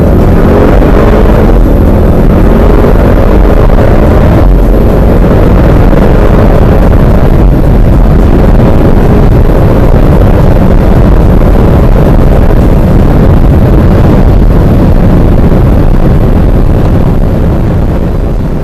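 Audi RS performance car engine under full-throttle acceleration, very loud, with heavy wind and road noise. Its pitch rises in the first seconds, and there is a brief break about four and a half seconds in. The sound fades out near the end.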